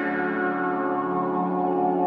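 Background music of sustained, ringing bell-like tones, steady and unbroken.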